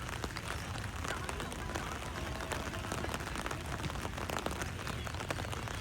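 Outdoor ambience: wind rumbling on the microphone under a steady fine crackle, with faint distant voices.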